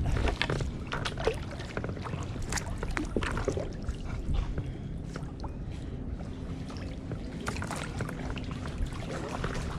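Kayak paddle strokes in shallow water, with water splashing and dripping off the blades and scattered light knocks.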